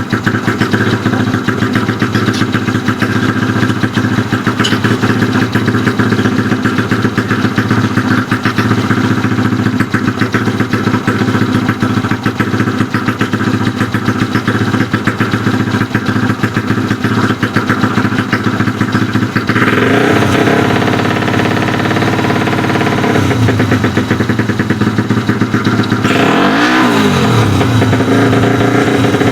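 Bored-up Honda Astrea Grand road-race motorcycle's single-cylinder four-stroke engine idling steadily, then revved up and down from about two-thirds of the way through, with one quick blip that rises and falls near the end.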